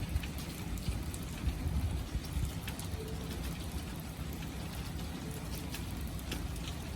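Steady rain falling, with scattered individual drops ticking close by over a low rumble.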